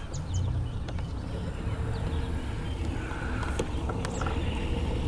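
Small electric trolling motor running as the boat moves, a steady hum coming in about halfway through over a low rumble. Birds chirp briefly early on.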